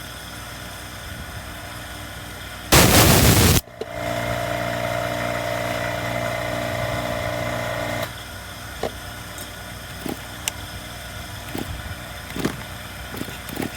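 A Stihl MS170 chainsaw's two-stroke engine cranked once by a sharp pull of the recoil starter, a loud burst of just under a second, while its spark is being tested. A steady hum follows for about four seconds, then a few light clicks of handling.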